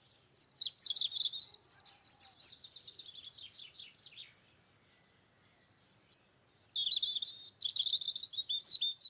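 A small songbird singing: two phrases of quick high chirps running into fast trills, the second phrase starting about six and a half seconds in.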